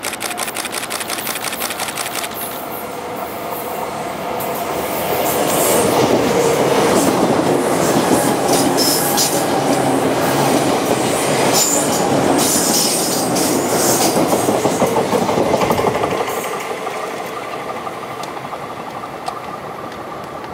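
Izukyu 2100 series electric train passing: rapid clicking at first, wheel and motor noise growing loudest through the middle, then fading away over the last few seconds.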